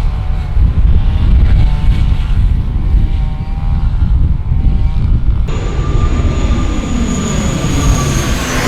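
Airliner engines passing low overhead: a loud, heavy rumble with a wavering whine. About halfway through the sound changes abruptly to a brighter, hissing turbine whine whose tones sag slightly in pitch.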